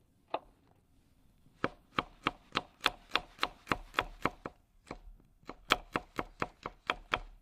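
Knife chopping garlic on a cutting board. A single knock comes first, then two runs of steady, sharp strokes at about three to four a second, with a short pause between them.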